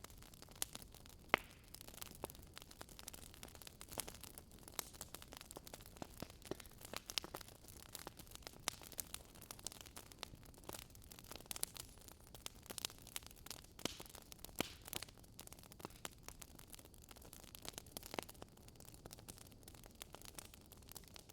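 Wood fire burning, with irregular crackles and pops over a soft steady hiss.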